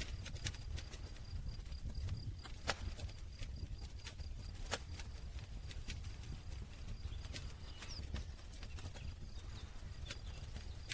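Campfire crackling: irregular sharp pops and snaps of burning wood over a low rumble of the flames, with two louder pops a couple of seconds apart.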